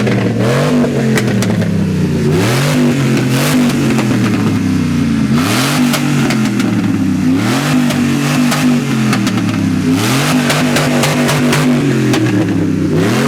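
Car engine revved again and again, its pitch climbing and dropping back about every second and a half, with sharp crackles in between.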